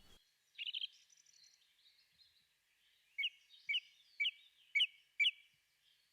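A bird calling: a brief call about half a second in, then a run of five short falling notes, about two a second, from about three seconds in.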